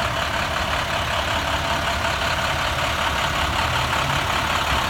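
Diesel engine of a 2013 International 4300 DuraStar box truck, a MaxxForce DT, idling steadily: a low rumble under an even hiss.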